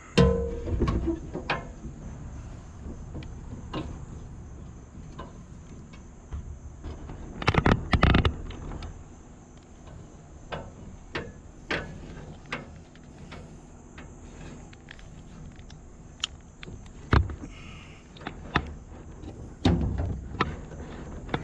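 Irregular knocks, clunks and handling clatter from hand work, loudest in a group about eight seconds in and again near the end, over a faint steady high-pitched hiss.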